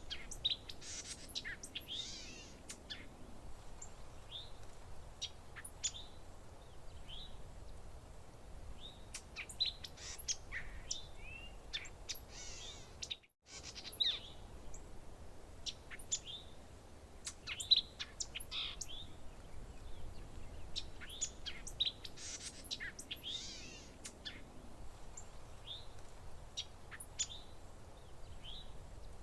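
Several songbirds chirping and calling, short high chirps and trills overlapping at irregular intervals, over a faint low steady background noise. The sound cuts out completely for a moment about 13 seconds in.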